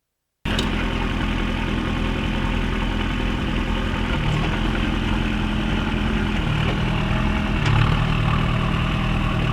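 Kubota turbo diesel engine in a Suzuki Samurai rock crawler running at low revs, its note shifting a little a few times, with a few light clicks. The sound cuts in suddenly about half a second in.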